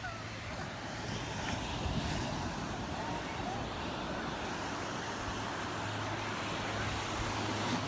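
Steady rushing outdoor background noise, a little louder from about a second in.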